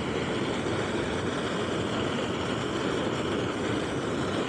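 Ocean surf breaking in strong wind: a steady, even rushing noise with no single wave crash standing out.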